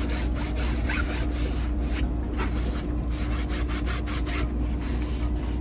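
Cloth wiping and scrubbing a car's interior speaker grille in quick, irregular rubbing strokes, over a steady low hum.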